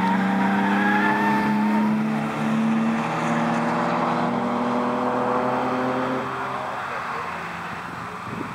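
2006 Subaru Impreza 2.5i's 2.5-litre flat-four engine pulling under load through an S-bend, its note holding a steady pitch with small steps, then fading after about six seconds as the car draws away. A thin squeal of the tires sounds over it in the first couple of seconds.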